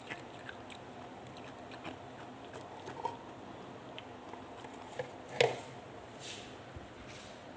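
Mouthful of hard freezer-frost ice being chewed, with scattered small crunches and one loud sharp crunch about five and a half seconds in.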